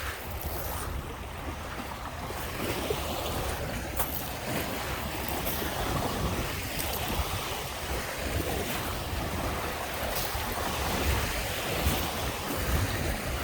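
Lake Michigan waves washing onto the beach in a steady, swelling rush, with wind buffeting the microphone in low gusty rumbles.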